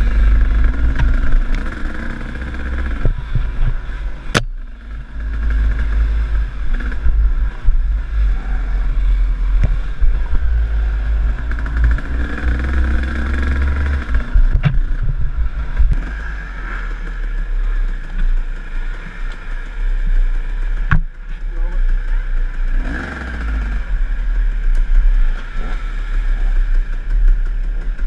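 KTM enduro dirt bike engine running under varying throttle on a trail ride, with a heavy low rumble and a couple of sharp knocks.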